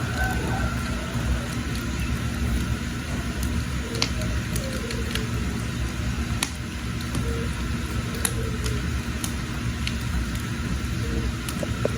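Firewood burning: a steady low rumble of the fire, with sharp crackles and pops of the wood every second or two.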